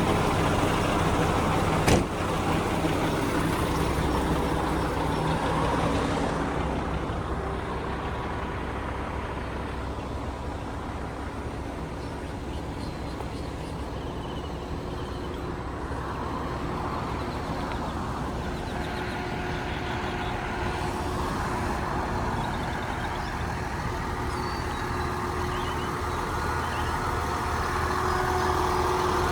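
Concrete mixer truck's diesel engine idling steadily, with one sharp knock about two seconds in; after about six seconds the engine hum drops back and is mixed with general job-site noise.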